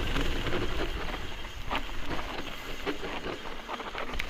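Mountain bike riding down a loose scree trail: tyres rolling over loose stones, with scattered clicks and rattles and wind noise on the microphone.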